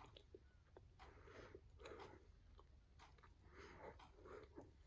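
Faint chewing of a mouthful of soft, buttered homemade bread, with a few small mouth clicks.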